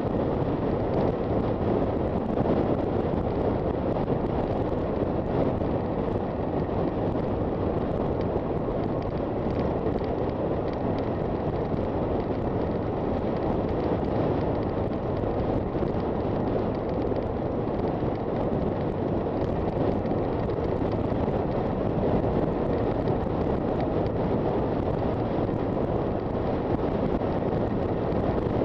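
Steady wind rush on the microphone of a moving motorcycle, with the Honda FT400's engine and road noise under it, level throughout.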